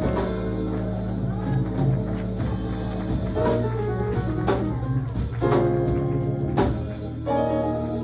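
Church band playing under the sermon: drum kit, tambourine and guitar or keyboard with sustained chords and a steady beat.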